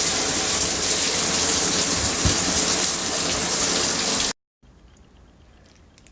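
Water running in a steady, even hiss, stopping abruptly a little over four seconds in. Faint room sound with a few small clicks follows.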